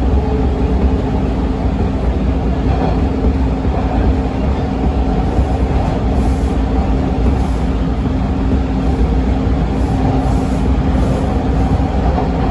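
TTC T1 subway train running between stations: a steady rumble of wheels on rail with a constant low hum.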